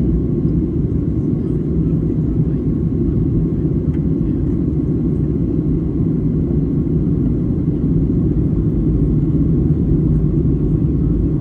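Steady low cabin rumble of a Boeing 737-800 airliner in flight, engine and airflow noise heard from inside the passenger cabin, with a faint constant hum under it.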